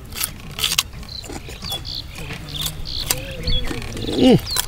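Raw carrot being bitten and chewed: a run of sharp, irregular crunches. Near the end there is a short, low voiced hum from the eater that drops in pitch.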